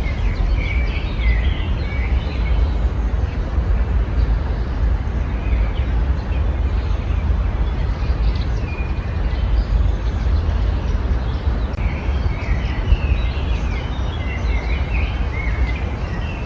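Small songbirds chirping and twittering in a garden, in bursts in the first couple of seconds and again in the last few seconds, over a steady low rumble.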